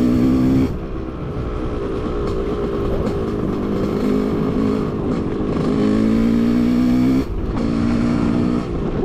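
Suzuki RM 250 two-stroke dirt bike engine running under varying throttle. It revs high at the start, drops off sharply less than a second in, builds back up, and is held high around six to seven seconds before the throttle is chopped again and reopened.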